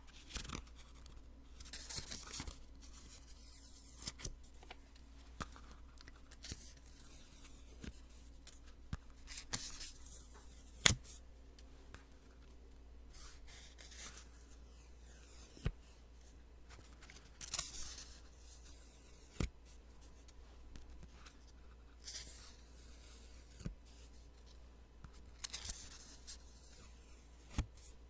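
Post-it sticky notes peeled off and handled close to the microphone: short, irregular papery peeling and rustling sounds with a few sharp clicks.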